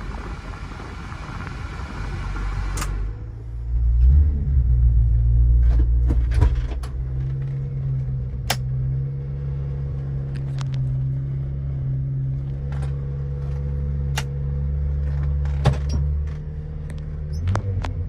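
Subaru Sambar mini truck's 660cc gasoline engine running steadily at idle, after about three seconds of a broad rushing noise. It is louder for a couple of seconds early on, with scattered light clicks over the idle.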